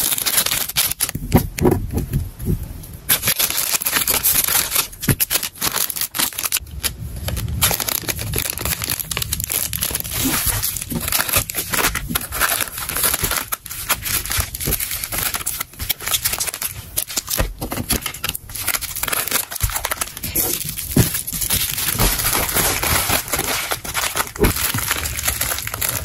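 Packing materials handled close to the microphone: continuous crinkling and rustling of plastic and paper, broken by many small clicks and taps, with some tearing.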